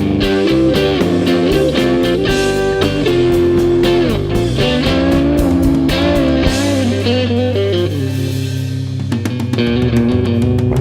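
Electric guitar playing an instrumental break in a live rock song, a run of quick picked notes over sustained low notes. From about eight seconds in, the playing thins to longer held notes.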